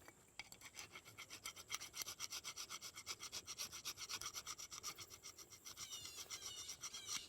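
Paint being scraped off by hand from the outboard's ignition ground point, in rapid, even back-and-forth strokes, several a second, starting about half a second in and stopping near the end. It clears bare metal so the power pack's ground wire makes good contact.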